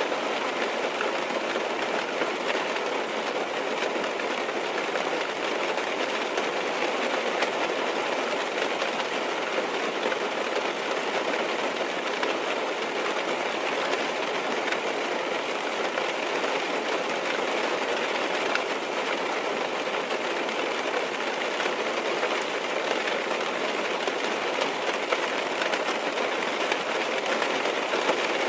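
Steady rain falling on a car's roof and windows, heard from inside the car: an even hiss made of many small drop taps, unchanging throughout.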